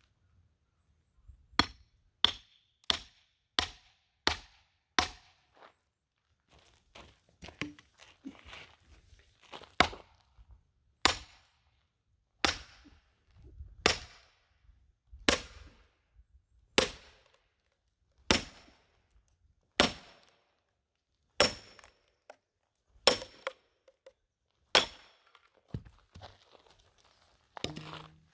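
Hammer blows on the back of an axe head driven into a large log to split it, sharp clanking hits with a short ring. A quick run of about six blows is followed by steady blows about a second and a half apart.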